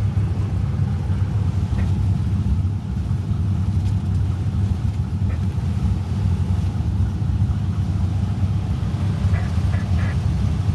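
Steady low rumble of a car engine running, with no revving or change in pitch.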